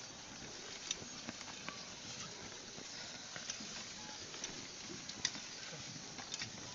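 Cattle drawing a plough through a field: scattered soft steps, clicks and knocks over a steady outdoor hiss.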